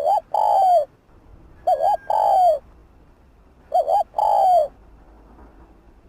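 Spotted dove cooing: three calls about two seconds apart, each a quick double note followed by a longer note that falls in pitch.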